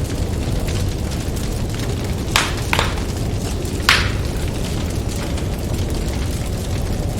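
Wood fire crackling, with a few sharp pops between about two and four seconds in, over a steady low rumble of snowstorm wind.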